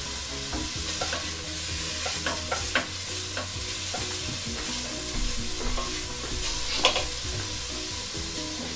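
Onions sizzling in hot oil in a steel saucepan, stirred with a wooden spoon that knocks and scrapes against the pan now and then, with the loudest knock about seven seconds in.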